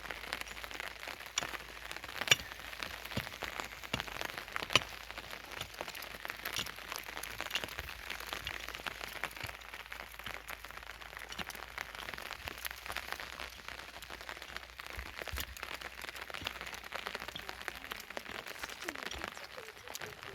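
Heavy rain falling steadily, a dense patter of drops with many sharp taps, two of them louder at about two and five seconds in.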